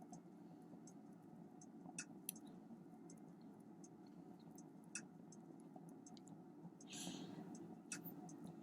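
Near silence: room tone with a few faint, sharp clicks and a brief soft rustle near the end.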